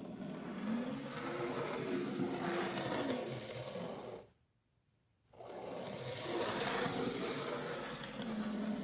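Small electric motor of an N gauge model locomotive running, in two runs of about four seconds each with a short stop between them; its hum rises and then falls in pitch as it speeds up and slows down.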